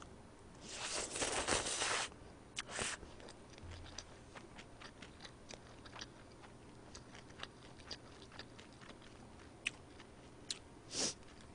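Mouth chewing a bite of boiled pork topped with kimchi, with wet mouth clicks and crunching; the loudest crunch comes about a second in and lasts a little over a second, a shorter one follows, and another comes near the end.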